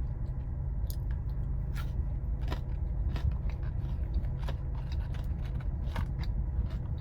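A person chewing food close to the microphone, with scattered soft crunches and wet mouth clicks, over a steady low hum.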